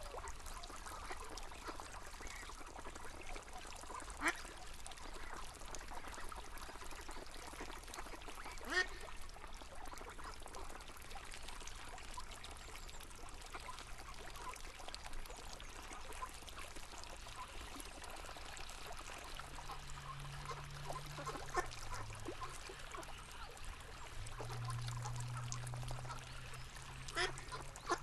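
Flowing river water with ducks quacking now and then, a few short sharp calls spread out over the stretch. A low steady hum comes in about two-thirds of the way through.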